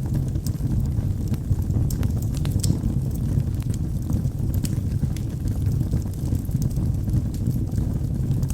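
Log fire burning in a fireplace: a steady low rumble of flames with frequent small, sharp crackles and pops from the burning wood.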